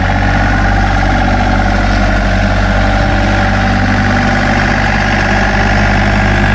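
Tractor engine sound, a steady idle with a low, even hum.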